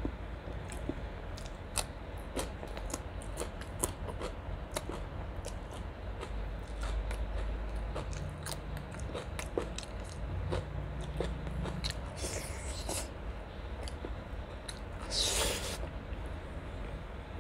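Close-up eating sounds: chewing and wet mouth noises with many small clicks, from a person eating chicken curry and biting a raw green vegetable stem. Two longer, louder sounds come about twelve and fifteen seconds in, the second the loudest.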